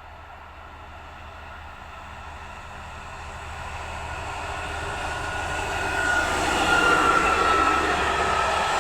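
Passenger train approaching on the rail line, growing steadily louder, with a steady whine over the rumble of the wheels, loudest about seven seconds in.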